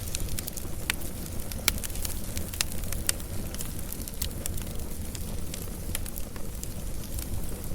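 Wood fire crackling: scattered sharp pops and snaps, a few a second, over a steady low rumble of the burning, with one louder pop just under two seconds in.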